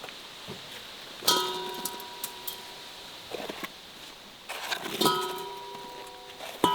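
Metal objects knocking together three times, about a second in, around five seconds and at the very end, each knock ringing on for a moment, with lighter clinks between.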